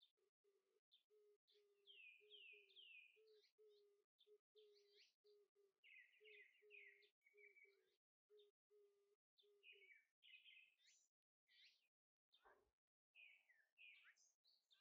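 Near silence with very faint birdsong: clusters of chirps sliding down in pitch, over a low note repeated about twice a second that stops around ten seconds in.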